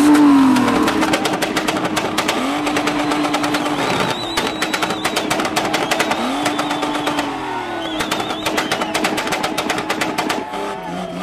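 Nissan 1400 bakkie's four-cylinder engine revved hard during spinning. Its pitch rises twice and each time holds steady at high revs, over a dense rapid crackle.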